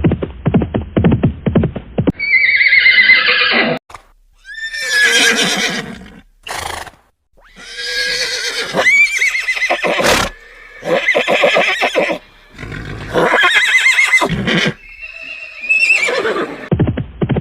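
Horse whinnies, about six in a row with short gaps between them, each a high wavering call that falls in pitch. The first two seconds and the last second hold a rapid fluttering pulse.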